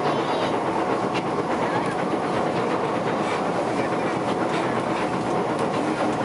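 Cabin noise of an SMRT C151 metro train running between stations: a steady rumble of wheels on rail, with a few faint clicks.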